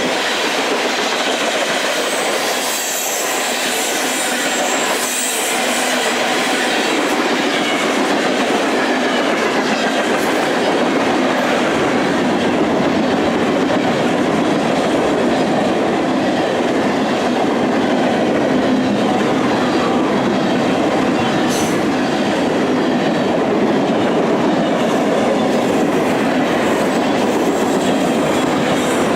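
Freight train cars rolling steadily past, steel wheels running on the rails with a continuous rumbling clatter.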